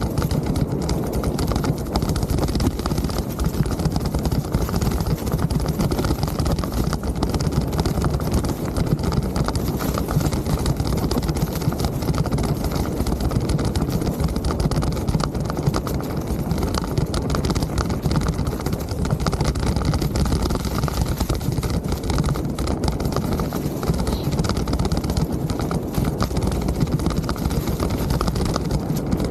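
Mountain bike rolling along a trail: a steady rumble of tyres on the ground and a constant rattle of the bike going over bumps.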